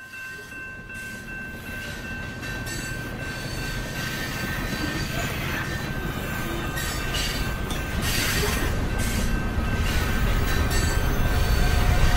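Freight train rolling by with a low rumble that grows steadily louder, and thin steady high-pitched wheel squeal on top.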